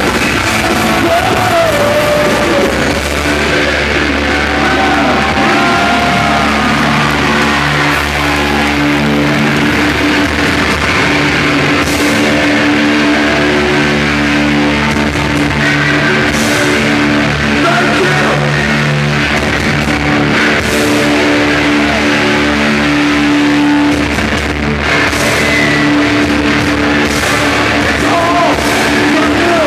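Live rock band playing loud, with sustained distorted chords, singing and cymbal crashes.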